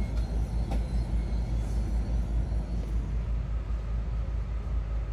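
Steady low rumble of a Tokaido Shinkansen carriage's running gear and interior, heard from a seat as the train slows into a station, with a few faint clicks.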